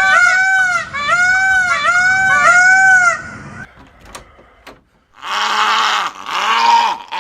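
Animal calls: a quick run of four loud, arching, high-pitched calls like a bird's call, then a short lull with a couple of clicks, and from about five seconds in harsh, hoarse cries like bleating.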